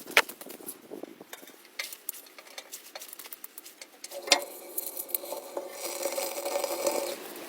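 Light clicks and clinks of utensils against cookware being handled, with a sharper knock about four seconds in followed by a faint ringing.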